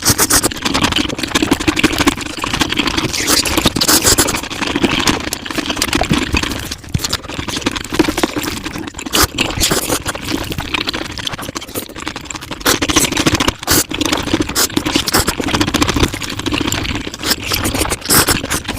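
Mukbang eating sounds played at high speed: chewing and mouth noises run together into a dense, rapid crackle of clicks.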